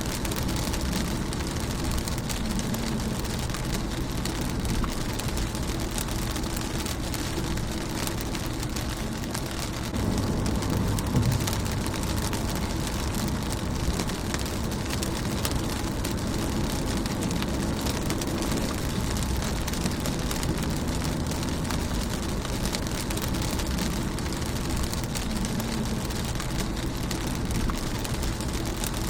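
Rain falling on a car, a steady patter of drops on the windshield and body with a deeper wash underneath. It swells briefly about a third of the way through.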